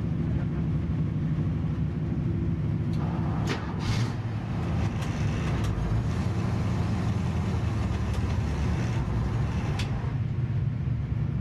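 Small-block Ford 351 Windsor V8 in a 1965 Mustang fastback with full exhaust, idling at a steady level. From about three seconds in to about ten seconds in, a rougher, hissier noise joins it, with a few sharp clicks.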